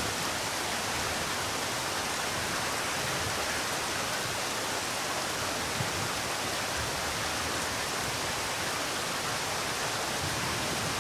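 Steady rain falling, an even hiss of many drops, with a few faint low thumps.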